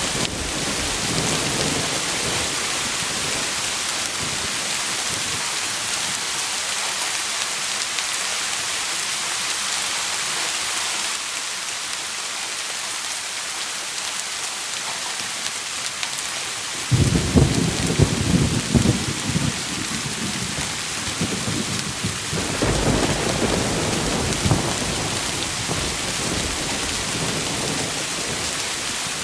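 Steady heavy rain hissing, with thunder breaking in twice: a loud, sudden rumbling crash a little past halfway that lasts about three seconds, and a second, lower rumble a few seconds later.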